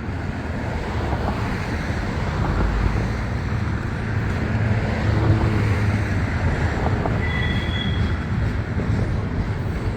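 Loaded coal hopper cars rolling past in a long heavy train, a steady rumble of wheels on rail, with a brief faint high tone about seven seconds in.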